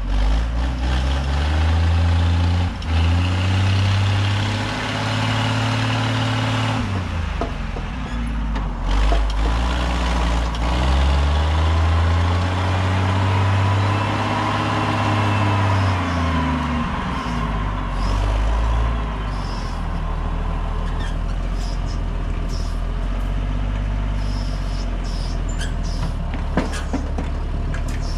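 A motor engine revving up and down twice, then settling to a steady low idle.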